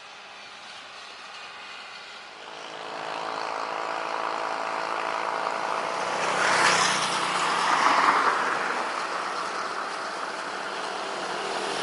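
Jet airliner engines running loud, the noise swelling from about two seconds in and peaking around the middle to two-thirds of the way through, then easing slightly, as the departing aircraft passes.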